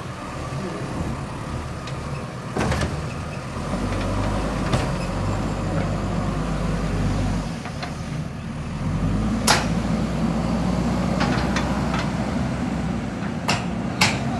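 JCB 3DX backhoe loader's diesel engine running under working load, its pitch shifting as the operator works the controls. Several sharp knocks stand out above the engine.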